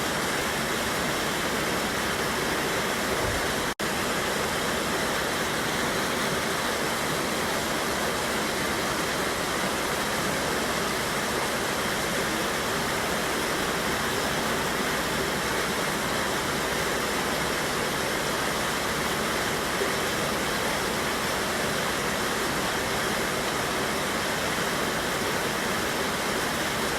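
Mountain river rushing over a waterfall: a steady, dense hiss of falling water, with a split-second dropout a little under four seconds in.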